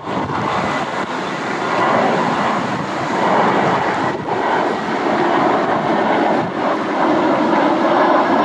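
Jet airliner engines running, a loud steady rush with a faint high whine, growing a little louder about two seconds in.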